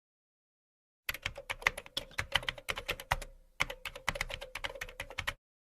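Keyboard typing sound effect: a fast, irregular run of key clicks that pauses briefly midway, then carries on and stops abruptly.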